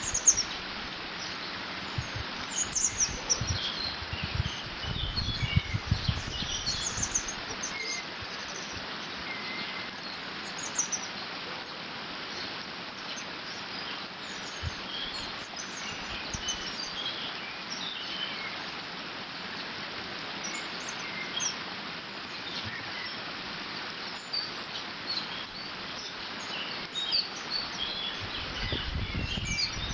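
Water running steadily through a beaver dam, with small birds chirping and calling on and off throughout. Gusts of wind rumble on the microphone a few seconds in and again near the end.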